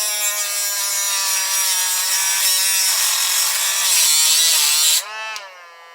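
A handheld power cutting tool grinds into a Master padlock. About five seconds in it comes off the metal, and the motor's whine carries on as it winds down.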